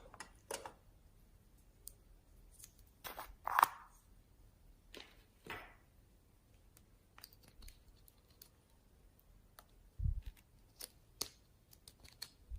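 Slime being handled by hand: scattered soft squelches and small clicks, the loudest about three and a half seconds in, with a low bump late on.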